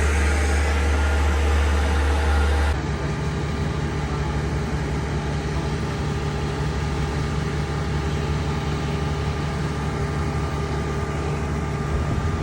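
Boat travel lift's engine running steadily while it hoists a sailboat in its straps; about three seconds in the engine note changes, becoming slightly quieter and settling into a steady, somewhat higher hum.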